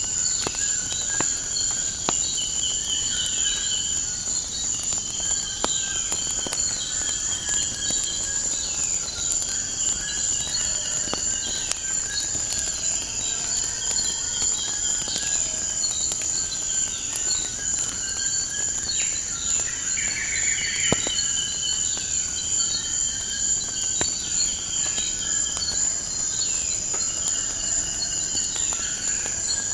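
Steady high insect trill with repeated bird chirps over it. Scattered crackles and pops of a wood fire run throughout.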